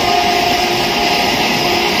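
Vande Bharat Express electric train passing close by at speed: a loud, steady rush of wheels and air, with a held horn note fading out toward the end.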